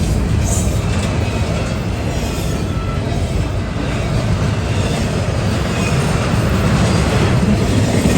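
CSX autorack freight train rolling past close by: a steady loud rumble of steel wheels on rail, with a few faint wheel squeals.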